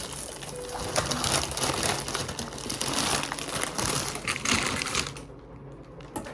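Packaging being handled, crinkling and rustling with many small crackles for about five seconds, then dying down near the end.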